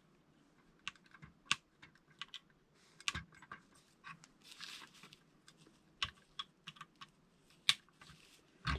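Irregular small plastic clicks and light rattling of LEGO pieces being handled and snapped together.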